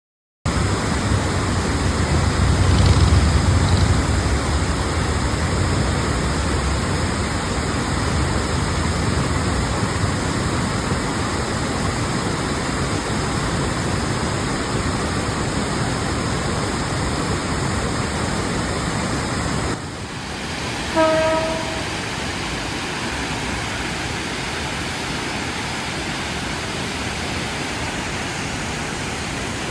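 Waterfall rushing with a full flow swollen by the previous day's rain, a loud, even roar that is deeper and louder in the first several seconds. About 21 s in, a brief pitched tone sounds for about a second over it.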